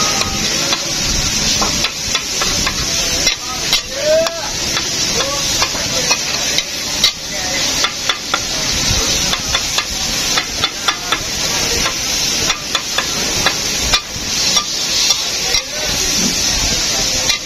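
Chopped onions and tomatoes sizzling in oil on a large flat tawa griddle, with a flat metal spatula scraping and clacking against the griddle again and again as the cook stirs and chops them.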